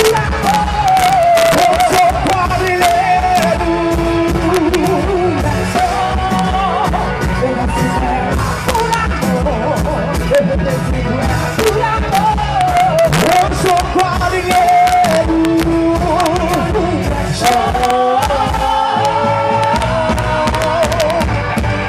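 Live festival band playing an upbeat quadrilha junina tune: drum kit and bass keep a steady beat under a wavering lead melody.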